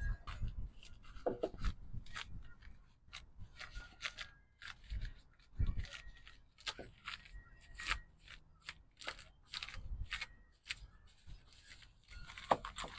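Irregular light clicks, taps and scrapes, a few each second, like small hard objects being handled.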